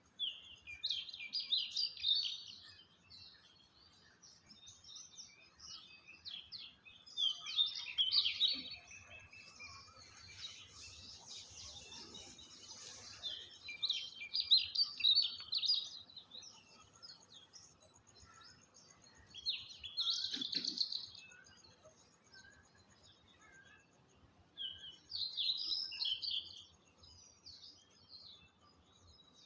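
A bird singing in short phrases of quick, high chirps, about five phrases a few seconds apart, with fainter calls in between.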